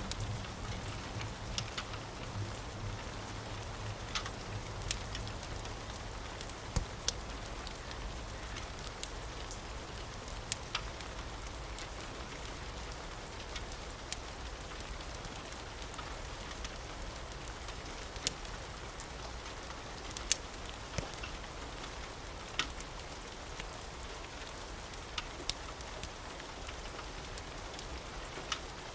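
Steady rain falling, with scattered sharp ticks and pops through it. A low rumble of thunder dies away in the first few seconds.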